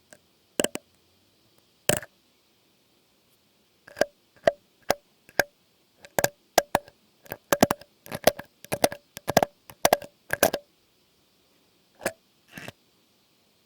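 Close-miked ASMR trigger sounds: short, sharp clicks, each with the same ring. A few come singly at first, then a quick irregular run fills the middle, with two more near the end.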